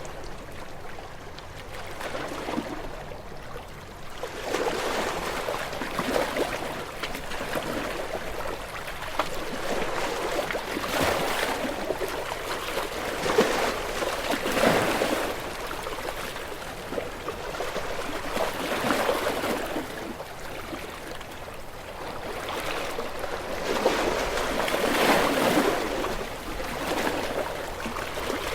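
Waves washing onto a shore, the surf swelling and easing every few seconds.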